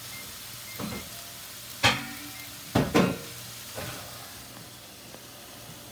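Beef burger patties sizzling in a frying pan, with a handful of sharp knocks between about one and four seconds in, the loudest around the middle.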